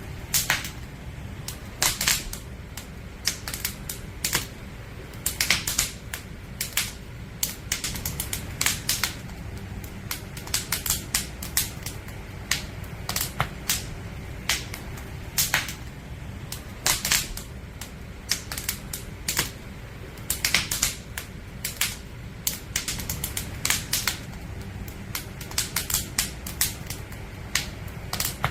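Wood fire crackling: burning logs give irregular sharp pops and snaps, sometimes several close together, over a low steady rumble.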